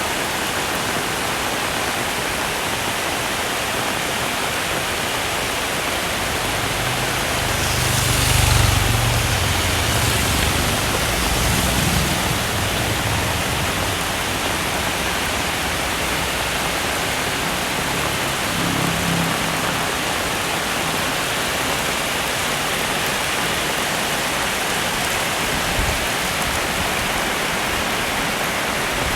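Heavy rain falling steadily. A low rumble swells about a quarter of the way in and lasts a few seconds, and a fainter one comes again later.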